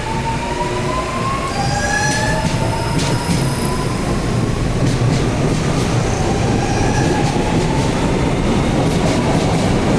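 Electric commuter train passing close by, a loud steady rumble of wheels on the rails with slowly rising whine tones in the first few seconds.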